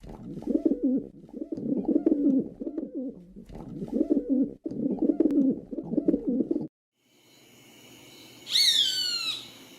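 A bird cooing, a run of low repeated calls for about six and a half seconds. After a sudden stop, a single high call slides down in pitch.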